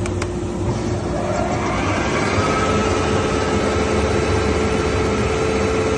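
Felder combination planer/jointer with a helical segmented cutter head running, with a single click at the start. About two seconds in its sound grows louder and fuller and settles into a steady hum as a board feeds through the cutter head.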